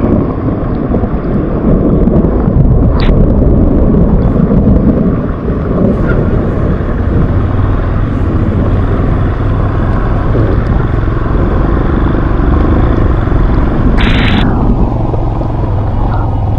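Off-road motorbike engine running steadily under way, a loud low rumble, with a short burst of sharper noise about fourteen seconds in.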